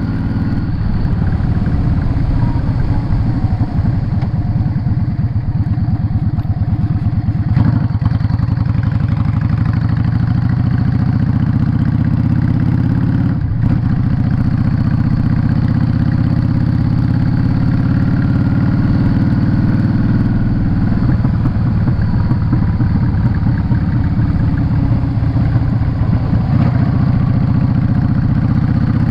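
Yamaha Drag Star 650 V-twin engine running steadily while the motorcycle cruises on the road, its deep exhaust note shifting only slightly in pitch.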